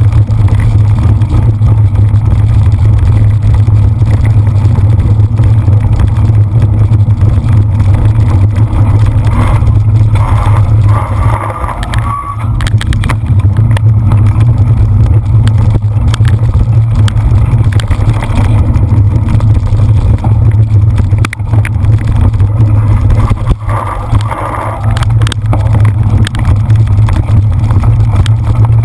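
Loud, steady low rumble of wind and riding noise on the camera's microphone as a cyclocross bike is ridden over the course, with a few knocks and rattles about twelve seconds in and again near the end.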